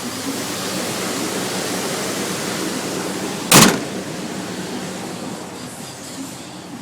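Dodge Ram 1500's 4.7-litre V8 idling steadily through its stock exhaust, with one sharp, loud thump about halfway through.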